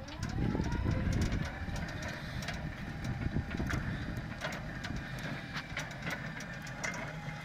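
Jungheinrich ESE 120 electric pallet truck's drive motor whining up in pitch as it starts moving, then holding a steady whine, over a low rumble with scattered clicks and rattles.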